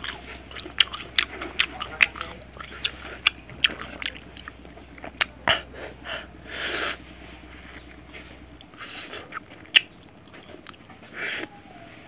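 Close-miked chewing of crunchy ginger slices in salt and chili, full of sharp wet mouth clicks and crunches. Some short breathy hisses come through, the first about six seconds in when a lime wedge is bitten.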